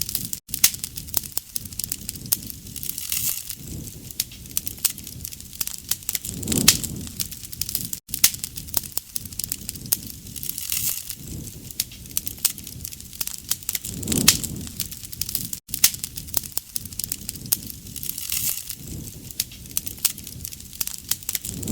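Campfire crackling steadily, with many sharp pops and snaps over a low rush that swells about every seven and a half seconds.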